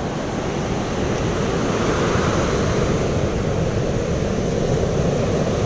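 Surf washing onto a beach with wind buffeting the microphone: a steady, even noise without distinct events.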